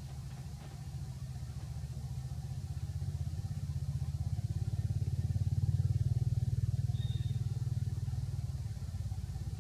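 An engine running steadily with a fast, even pulse, growing louder about halfway through and easing off again near the end.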